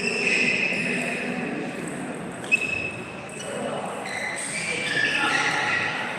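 Background voices murmuring in a large hall, with one sharp click of a table tennis ball about two and a half seconds in.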